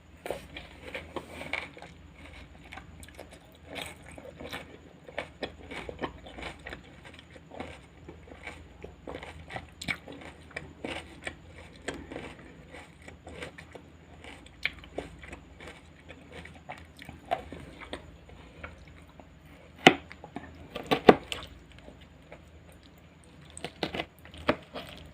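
Close-miked chewing and crunching of raw salad vegetables: quick crisp crackles of crunching, loudest about twenty and twenty-one seconds in.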